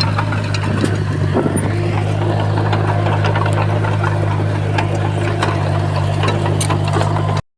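Komatsu bulldozer diesel engine running steadily, with scattered light clanks and clicks over the hum. The sound cuts out briefly near the end.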